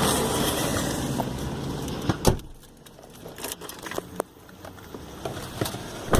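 Steady outdoor traffic noise cut short by the thump of a car door shutting about two seconds in, followed by the quieter car interior with scattered small clicks and knocks as things are handled.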